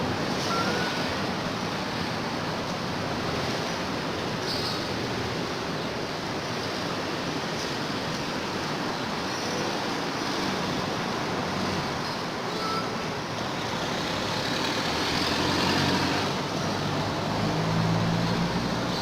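Steady road traffic noise, with a louder passing vehicle engine near the end.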